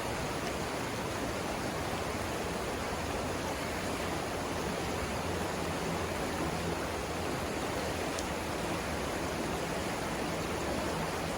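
Savannah River rapids rushing steadily, a continuous even wash of water noise.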